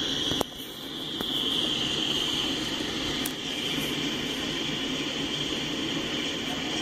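Freight cars rolling past on the rails: a steady rush of wheel and rail noise with a high-pitched hiss over it. A sharp click comes about half a second in, after which the sound dips briefly and then builds back up.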